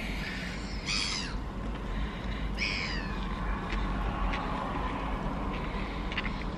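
A bird calls twice, about a second and a half apart, each short call falling in pitch, over a steady low hum.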